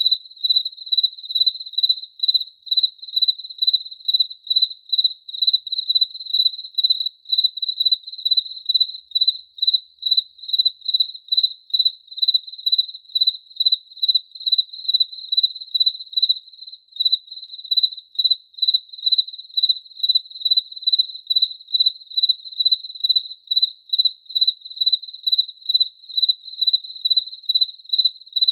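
A cricket chirping steadily: one high-pitched note repeated in an even rhythm, about two chirps a second.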